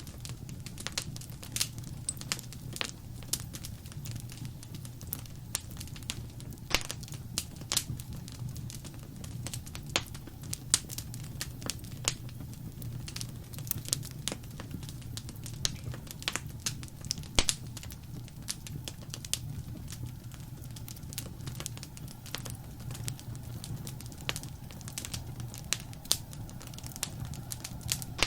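Wood fire crackling in a fireplace: irregular sharp pops and snaps, a few louder than the rest, over a steady low rumble of the burning.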